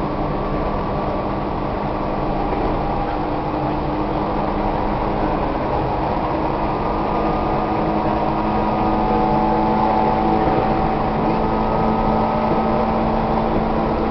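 Tobu 1800 series electric multiple unit heard from inside a passenger car while running: steady wheel and rail rumble with a traction motor whine that climbs slightly in pitch and grows a little louder in the second half as the train gathers speed.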